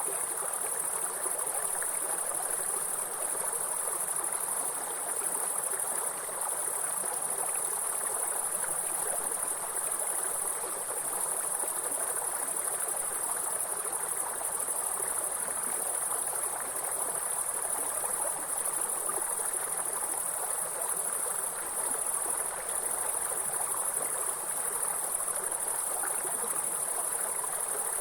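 A steady, high-pitched insect chorus, the grasshoppers' continuous shrill, over the even rush of running stream water.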